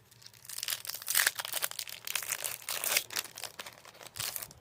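Foil wrapper of a Pokémon card booster pack crinkling and being torn open, a dense run of crackles lasting about four seconds.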